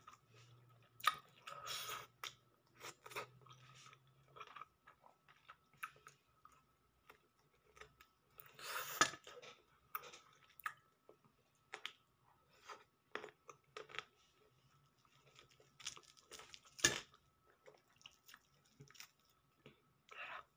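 Close-mic chewing and crunching of air-fried fish eaten with rice: irregular crisp crackles and bites, with the loudest crunches about two seconds in, near the middle and near the end.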